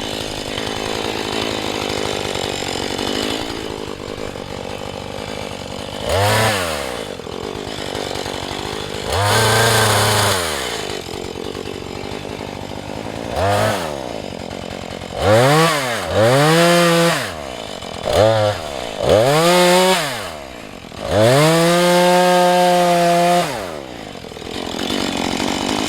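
Husqvarna 435 two-stroke chainsaw idling, then revved to full throttle in about eight bursts, each rising quickly, holding high and falling back to idle; the longest, about two and a half seconds, comes near the end. The bursts are the saw cutting into a pine trunk during felling.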